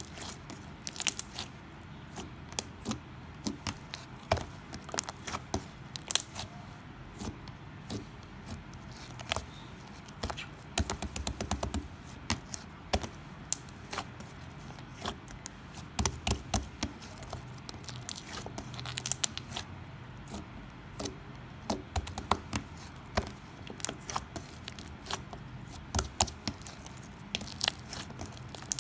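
Elmer's glue slime being squeezed and stretched by hand, making irregular sharp clicks, pops and sticky tearing sounds several times a second.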